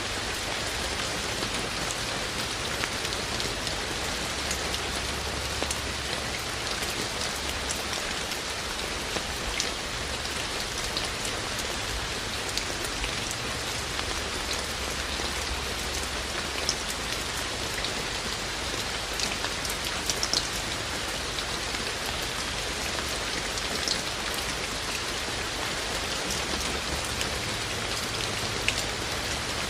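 Steady rain falling, with many scattered drops ticking sharply on nearby surfaces over the even hiss.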